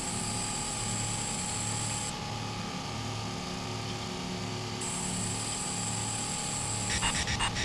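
Electronic, synthesized sounds of an electroacoustic composition: steady high-pitched tones that cut out and return, over a low hum pulsing about twice a second, with a quick cluster of clicks near the end.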